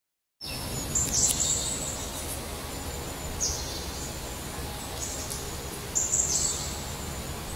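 A bird repeating a short, high-pitched call phrase about every two and a half seconds over a steady low background hum of outdoor noise. The sound cuts in suddenly about half a second in.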